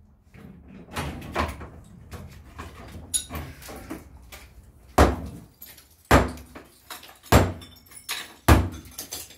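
Heavy blows breaking up a fireplace: smaller knocks and clattering debris, then four loud, deep impacts about a second apart in the second half.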